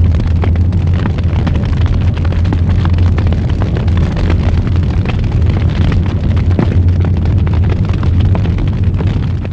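Wood fire burning in a fireplace, with many sharp crackles and pops over a steady low rumble.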